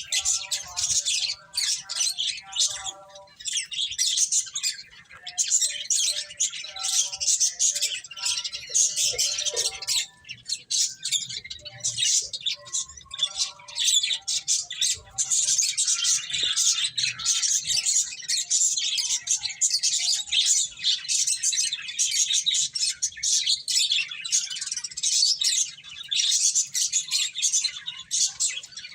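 A group of pet finches chirping continuously, many quick high calls overlapping, with lower, pitched calls mixed in during the first half.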